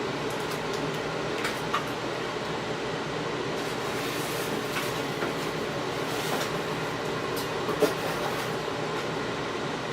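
A steady mechanical hum, with a few light clicks, one about two seconds in and one near eight seconds.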